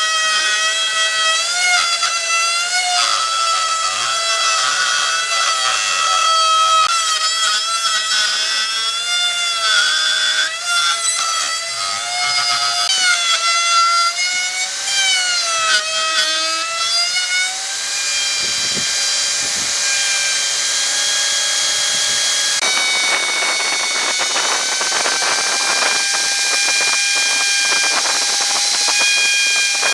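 Electric power tool whining as it works hardwood, its pitch dipping and recovering as the load changes. From about 18 s the pitch holds steadier, and from about 23 s a rougher cutting noise joins it.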